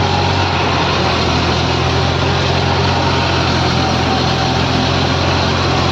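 Engine of a construction machine running steadily at a constant speed.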